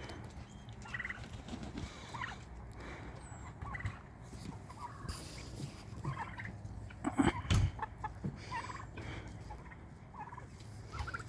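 A backyard poultry flock of chickens and guinea fowl calling, with short scattered calls over a low steady hum. A few louder knocks come about seven seconds in.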